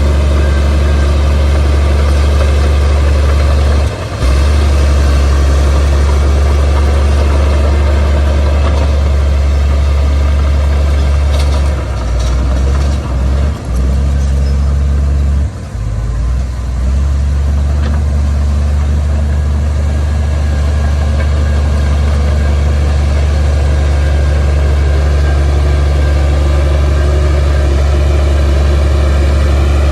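Heavy earthmoving machine's diesel engine running steadily, a deep hum that dips briefly about four seconds in and several times between twelve and seventeen seconds.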